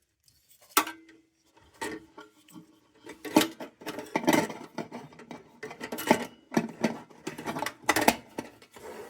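Light metal clinks and knocks of thin metal being handled, a dozen or so irregular sharp strikes. One, about a second in, rings briefly.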